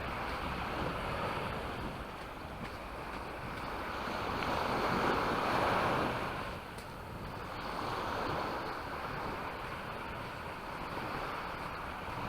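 Small waves breaking and washing up the shore, the surf swelling and fading over a few seconds with its loudest wash about halfway through, and wind rumbling on the microphone.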